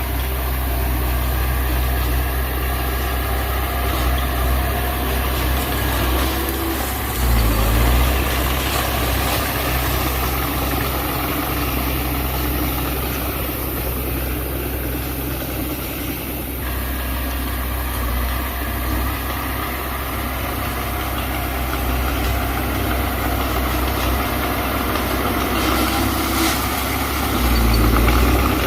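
Mitsubishi BD2F bulldozer's diesel engine running steadily, its pitch slowly rising and falling, with a louder, deeper rumble twice: about a quarter of the way in and near the end.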